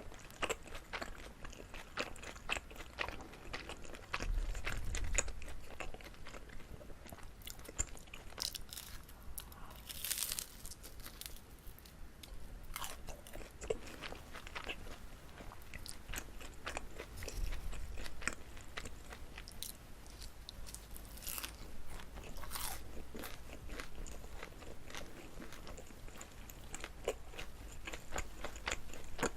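Close-miked chewing of a chewy Korean rice cake (jijilkku-tteok filled with gondre greens): a steady run of wet mouth clicks and smacks, with a short hissing burst about ten seconds in.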